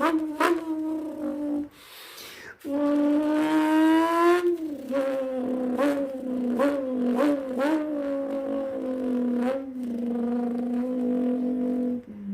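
A person imitating a V10 supercar engine with their mouth: a buzzing hum that revs up in pitch, drops back as if shifting gear, blips several times, then holds a steady note before cutting off near the end. There is a short break about two seconds in.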